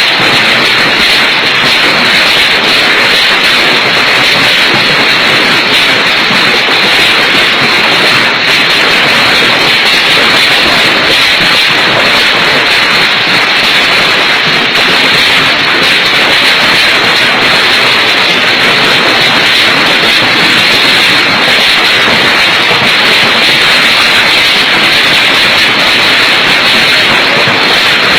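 Hail and heavy rain falling hard: a loud, dense, even clatter and hiss that keeps up without a break.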